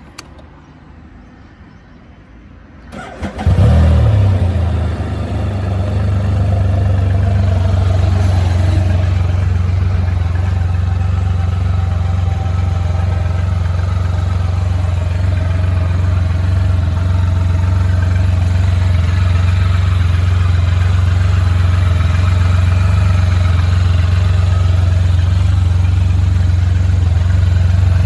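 Can-Am Spyder RT three-wheeled motorcycle engine being cranked and starting about three seconds in, then idling steadily.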